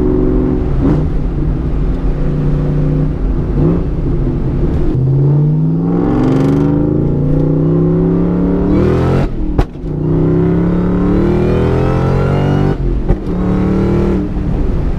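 2003 SVT Cobra's supercharged 4.6-litre V8 accelerating through the gears on a Borla Stinger exhaust: the engine note climbs, drops sharply at a gear change about nine and a half seconds in, climbs again, and drops at another shift near thirteen seconds.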